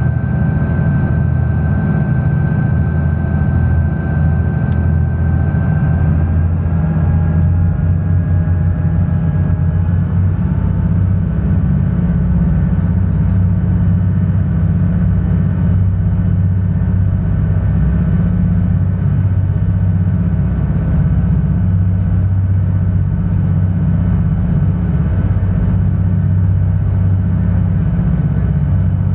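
Sightseeing cruise boat's engine running with a steady low drone. In the first few seconds a fainter whine rides above it, steps up in pitch about six seconds in and fades out by about ten seconds.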